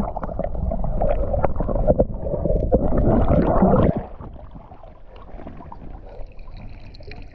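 Water splashing and sloshing close to the microphone, with sharp knocks and rubbing mixed in, loud for about four seconds and then dropping to quieter lapping.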